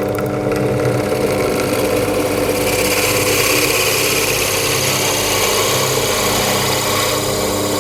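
Drill press motor running steadily at speed, with a harsher hiss coming in about three seconds in.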